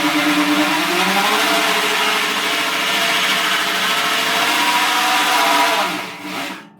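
Electric drill running a hole saw into sheet steel: a steady motor whine over a harsh cutting noise. The pitch rises a little about a second in, and the drill stops near the end.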